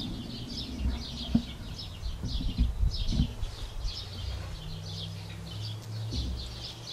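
Small birds chirping over and over, with low knocks and rustles of handling and one sharp click about a second and a half in. A low steady hum comes in about halfway.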